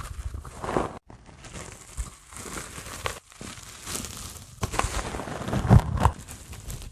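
A dry sponge handled close to the microphone: irregular crinkly, scratchy rustling with scattered louder crunches, the loudest a little before the end.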